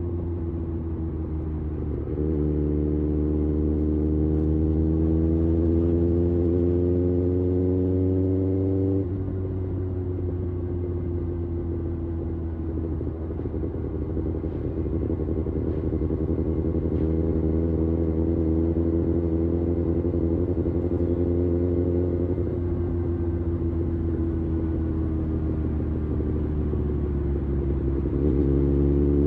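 Kawasaki Ninja ZX-6R inline-four sportbike engine and exhaust under way. The engine note climbs steadily under throttle, drops off about 9 seconds in, climbs again and eases off a little past the middle, then falls gradually.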